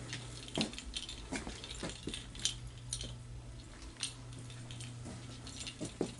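Scattered light clicks and knocks, about one or two a second, from someone moving about a room with a handheld camera, over a steady low hum.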